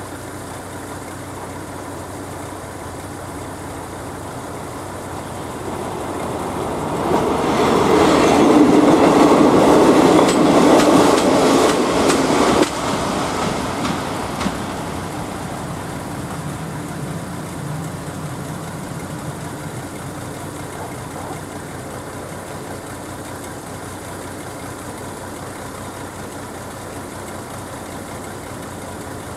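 A passenger train passing over the level crossing. It builds up from about six seconds in and is loudest for about five seconds, with wheels clattering over the rail joints. The sound then drops off sharply and fades away.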